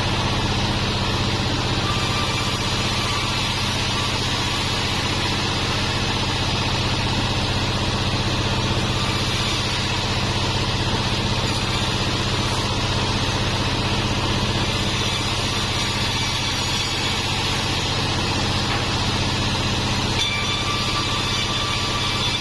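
Sawmill bandsaw machine running steadily with a constant low motor hum.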